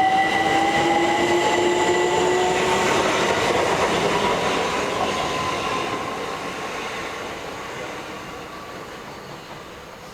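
Electric multiple unit train pulling away with its traction motor whine rising in pitch as it accelerates, over wheel and rail noise, then fading as it moves off.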